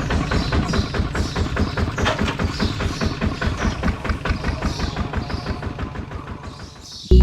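Small diesel engine running with a rapid, even knock, fading away over the last couple of seconds.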